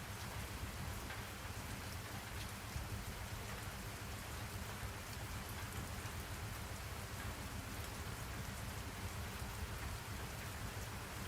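Steady rain falling, with scattered drop ticks over a low, even rumble.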